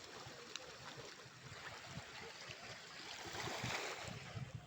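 Sea wave washing up the sand at the shore, a steady hiss of surf that swells to its loudest about three and a half seconds in, then eases.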